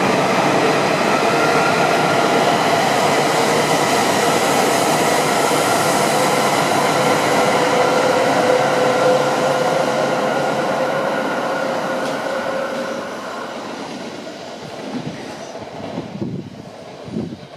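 Coupled E5 and E6 series Shinkansen running past, a loud steady rush of wheel and air noise. It fades away over the last few seconds as the train draws off into the distance.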